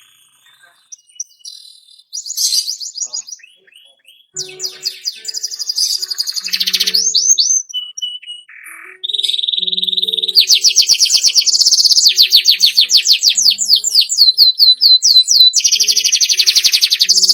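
Domestic canary singing: a few scattered high chirps, then fast trills and rolls from about four seconds in. From about the middle it becomes a loud, unbroken run of rapid repeated notes, with one held whistle just before.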